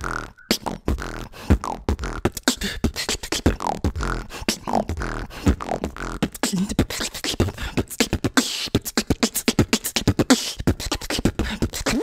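A female beatboxer beatboxing: a fast, dense run of mouth-made drum sounds (kicks, snares and hi-hats), with short gliding pitched tones woven between the hits.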